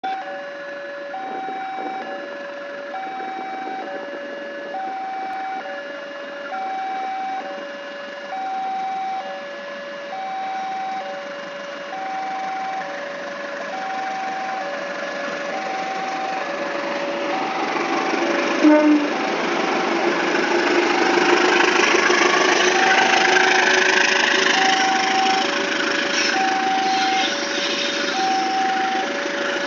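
A two-tone electronic warning alarm beeps throughout, alternating a higher and a lower tone about once a second. From about halfway a CC 203 diesel-electric locomotive's engine grows steadily louder as the train pulls away, with a brief sharp sound just before the engine noise peaks.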